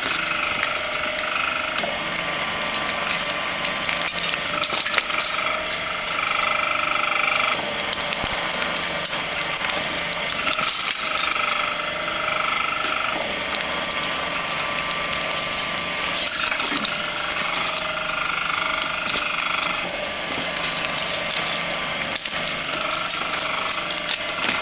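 Cable-stripping machine running with a steady motor whine, with dense rattling and clinking as steel-armoured two-core copper cable is fed through and its steel armour is stripped off. The clatter grows and fades several times.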